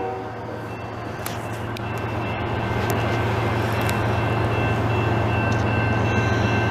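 Canadian Pacific diesel freight train approaching: a horn blast cuts off just at the start, then the locomotive's low, steady engine hum and rail rumble grow gradually louder.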